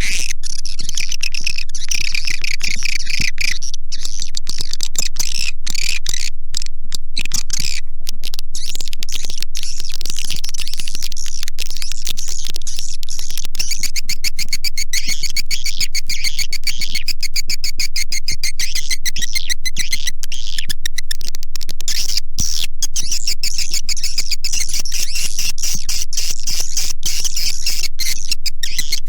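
Swiftlet calls played as a swiftlet-house lure track: dense, high-pitched twittering chirps mixed with rapid clicks, at a constant level.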